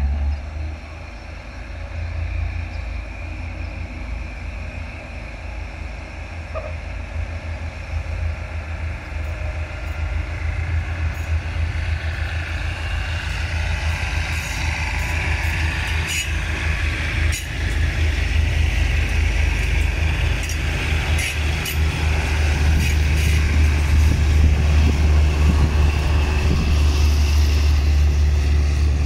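Diesel railcar train pulling out of the station and coming past. Its engines run with a deep, low drone that grows steadily louder, with scattered sharp clicks through the middle.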